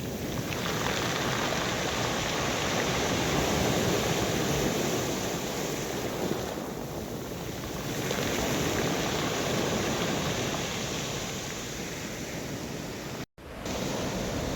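Rough sea surf washing onto the shore, swelling and easing every few seconds, with a split-second dropout near the end.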